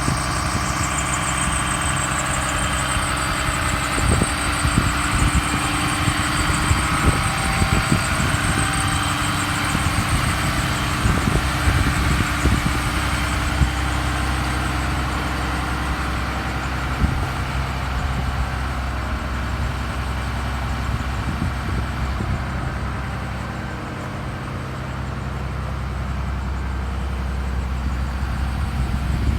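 Cummins 6.7 diesel of a 2009 Blue Bird Vision school bus idling steadily just after a cold start, with scattered sharp clicks over its first half.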